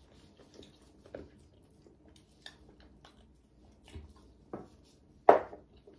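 Close-miked eating: chewing and gnawing on braised pork trotter, with scattered small clicks and smacks. One much louder, sharp sound comes about five seconds in.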